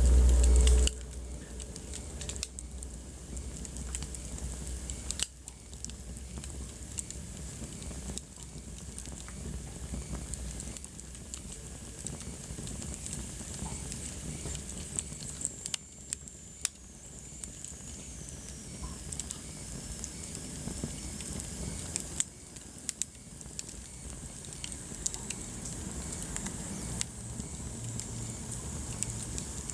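Wood fire burning in a fireplace: a steady hiss of flames with frequent sharp pops and snaps from the burning logs. A loud low rumble fills the first second.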